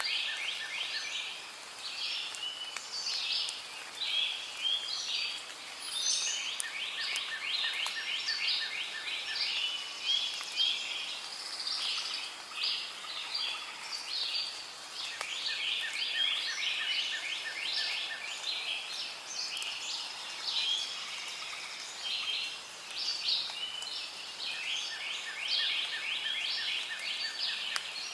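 Rainforest ambience: a dense, continuous chorus of birds chirping and calling, with a fast pulsing trill that comes and goes several times.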